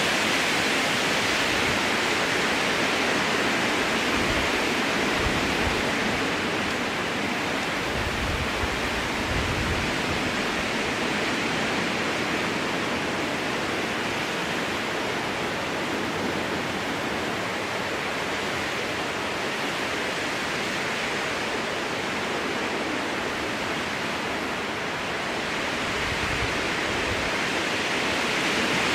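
Strong wind blowing through a spruce forest, heard as a steady hiss that eases a little through the middle and swells again near the end.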